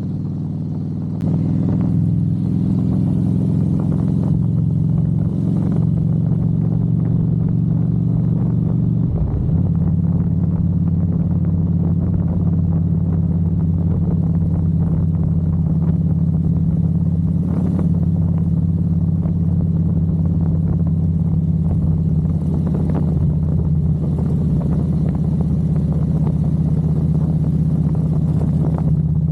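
Harley-Davidson Ultra Classic's V-twin engine running under way, getting louder about a second in as it pulls harder, with a brief break in the engine note around nine seconds in, then a steady cruise.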